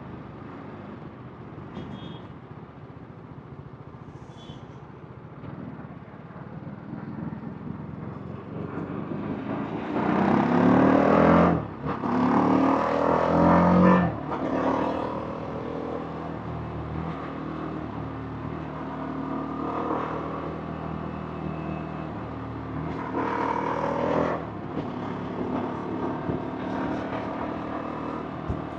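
TVS Apache RR310's single-cylinder engine and exhaust running under way, over wind and road noise. About ten seconds in it revs up hard, with a short break near twelve seconds, then settles back to cruising, and it picks up again briefly near the middle-to-late part.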